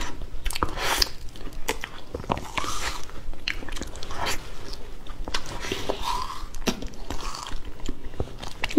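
Chewing and lip smacking on durian flesh, with many small wet mouth clicks.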